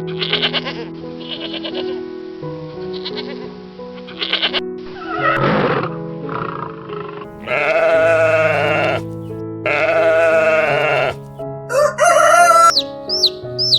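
Bleating livestock over background music: two long, wavering bleats in the second half, shorter calls earlier, then a brief rising call near the end followed by quick repeated high peeps.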